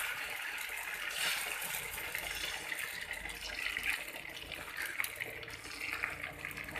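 Rice and urad dal batter sizzling on a hot tawa, a steady hiss with a few faint ticks.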